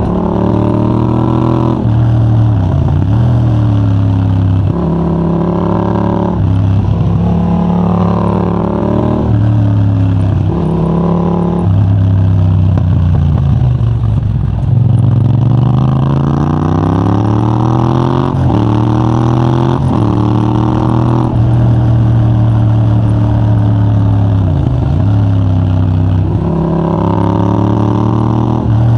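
Yamaha MT-07's 689 cc parallel-twin engine through a de-catted Mivv GP Pro titanium exhaust with a 35 mm dB killer, ridden hard: the note rises again and again as it pulls through the gears, breaking off at each shift, and drops back when the throttle is closed for bends.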